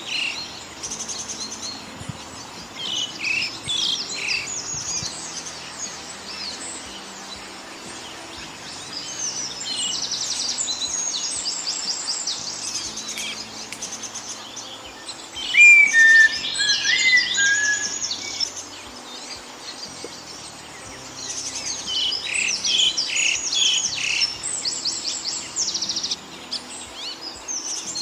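Several small birds chirping and singing, with rapid high-pitched trills overlapping throughout. A louder bird joins about halfway through with a few seconds of lower chirps and short falling whistles.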